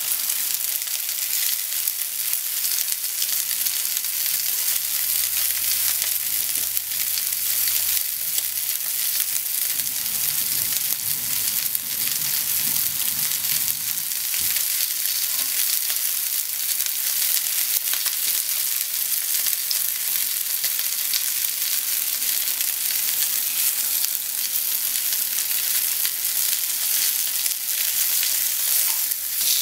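Pork slices and sliced onion sizzling steadily in oil in a frying pan.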